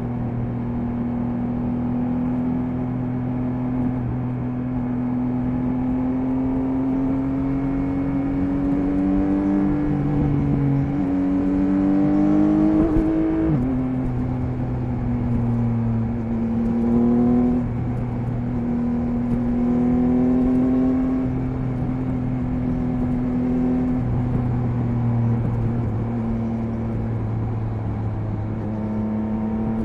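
Triumph Speed Triple 1050 RS's three-cylinder engine running at speed on the road. Its pitch climbs slowly for the first half, drops sharply about halfway through, then holds roughly steady with small rises and falls.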